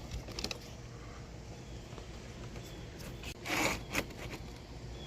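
A hand ratchet working a 10 mm nut on a car battery's cable terminal: a few light clicks at first, then one short rasping run about three and a half seconds in, ending in a click.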